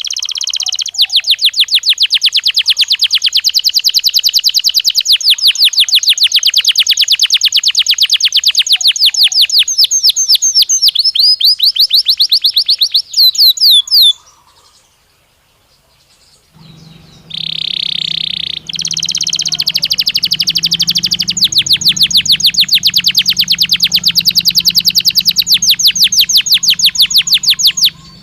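Belgian canary singing: two long phrases of very rapid, even trills, each opening with a short buzzy note. The first phrase ends in a few quick rising sweeps about fourteen seconds in, and the second follows after a pause of a couple of seconds.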